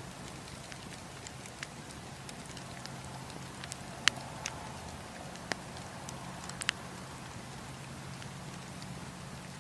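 Wood campfire crackling, with scattered sharp pops and snaps (the loudest about four seconds in) over a steady low rumble.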